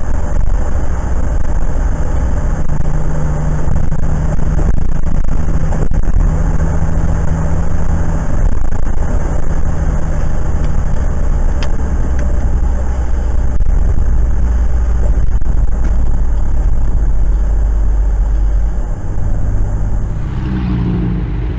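Steady, loud engine and road rumble of a moving car, with a few faint knocks along the way. The sound changes abruptly about a second before the end.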